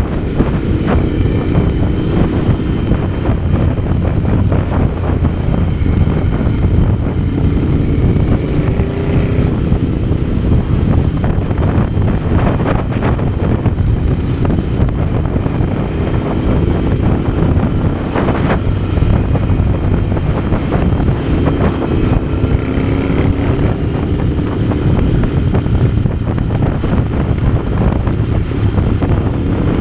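Motorcycle engine running on the road with heavy wind noise on the microphone. The engine note rises and falls with the throttle.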